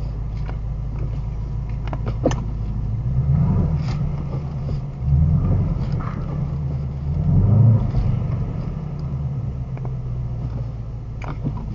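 2018 Shelby GT350's 5.2-litre flat-plane-crank V8 running at low revs, swelling in loudness three times as the car is driven, with a few light clicks along the way. The car is being driven to bring out a reported clunk or squeak under braking.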